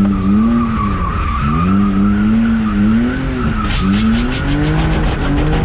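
BMW E46 drift car's engine revving up and down as the throttle is worked through a slide, with tires squealing. A rapid, even ticking joins in about two-thirds of the way through.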